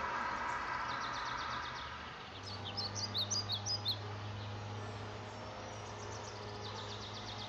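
A small bird chirping: faint high notes about a second in, then a louder quick run of short, high chirps around the middle, over a steady low hum that starts about two seconds in.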